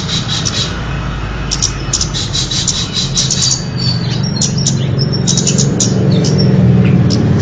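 Kemade bird calling in quick runs of short, high, sharp chirps, a bird-trapping lure recording. A steady low hum runs underneath and grows louder over the second half.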